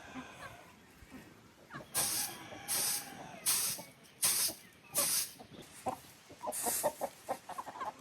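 Chickens clucking amid a run of rhythmic swishing strokes, about one every three-quarters of a second.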